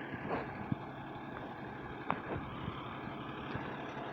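A vehicle engine idling steadily, with a few faint knocks and clicks over it.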